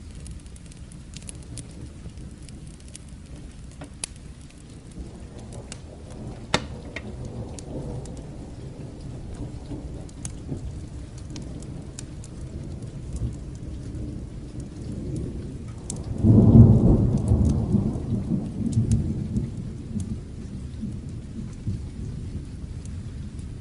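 Steady rain with a thunder rumble that builds from about five seconds in and breaks into a loud rolling peak about two-thirds of the way through, then fades. Scattered sharp pops sound over the rain.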